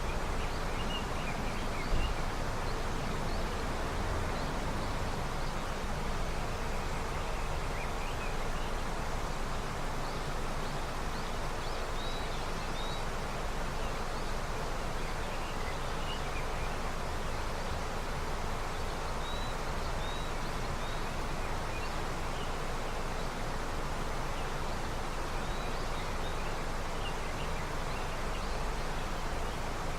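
A river running steadily with snowmelt, a constant rush of water. Small birds give short, faint chirps here and there above it.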